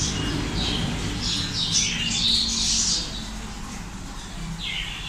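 Small birds chirping and squawking: a quick run of short, high, falling calls for the first three seconds or so, then another call near the end.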